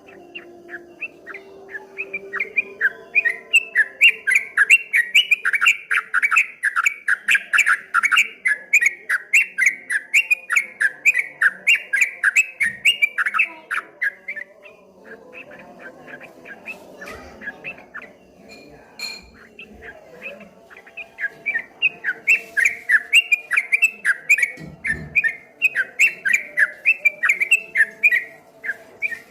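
Yellow-vented bulbul (trucuk kebo) singing a rapid run of repeated chattering notes, about four a second, the fast 'ropel' song. It sings a long bout of about thirteen seconds, pauses for several seconds, then starts again.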